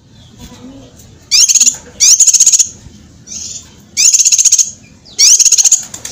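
Cucak kinoi songbird singing in loud, sharp bursts: four rapid runs of quick rising notes, high-pitched, with fainter chirps between them.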